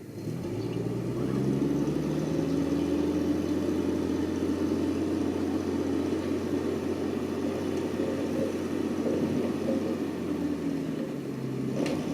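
Heavy construction machine's engine running. It comes up in pitch over the first second and a half, runs steadily, then eases off near the end, with a sharp click just before the end.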